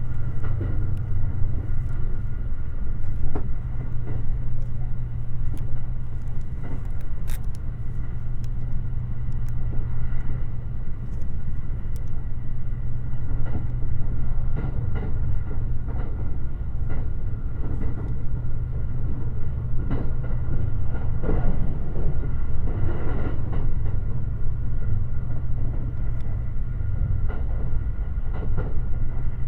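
Limited Express Shirasagi electric train running at speed, heard from inside the passenger car. It gives a steady rumble with a faint steady whine above it and scattered clicks from the wheels on the track.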